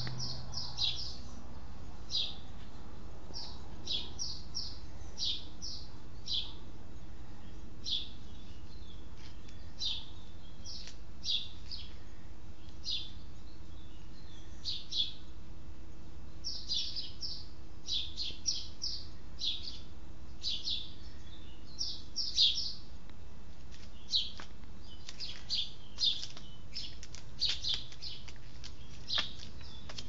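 Small birds chirping: short, high chirps repeated irregularly about once a second, over a steady low background hum.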